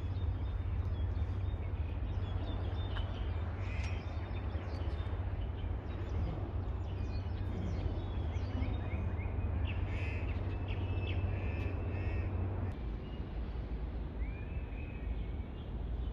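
A large flock of birds calling as it passes overhead: many short, overlapping calls, scattered and irregular. A low steady rumble runs underneath and drops away about three-quarters of the way through.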